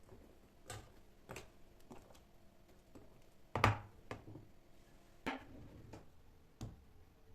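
About ten irregular taps and knocks of kitchen utensils and food being handled, the loudest about three and a half seconds in.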